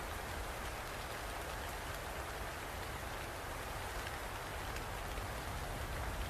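Steady rainfall: an even hiss of rain with a low rumble beneath and small drops ticking on a surface.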